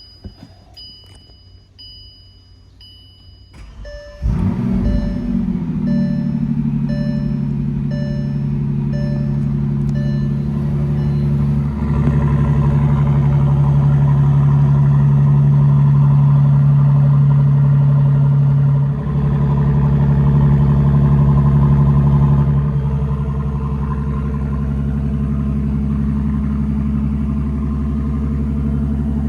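Car warning chimes beeping evenly, then the 2017 Bentley Continental GT Supersports' 6.0-litre twin-turbo W12 starts about four seconds in with a brief flare and settles into a steady idle. A second chime keeps beeping at a different pitch for several more seconds. The idle's level shifts a few times and is lower near the end.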